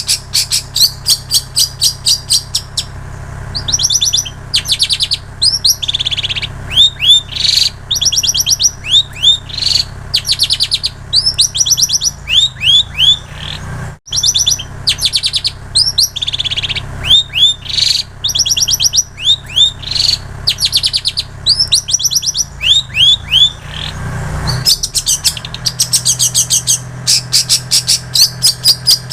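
Long-tailed shrike (cendet) singing loud, continuous mimicry song of rapid-fire high trills and quick slurred chirps in short phrases, taken from prinia and canary songs.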